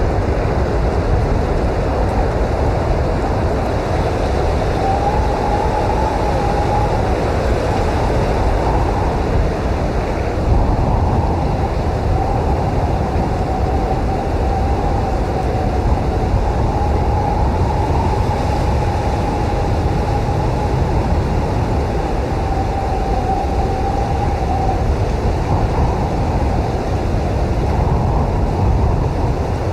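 Blizzard wind blowing steadily with a deep rumble, and a faint wavering whistle that comes and goes over it.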